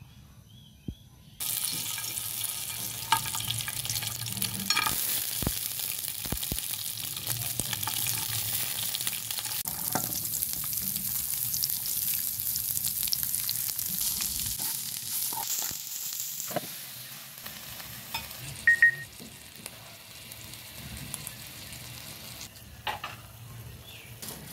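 Oil sizzling in an aluminium frying pan as garlic and carrot strips fry. The sizzle starts suddenly about a second and a half in and eases to a lower level about two-thirds of the way through, with a few short knocks as ingredients go into the pan.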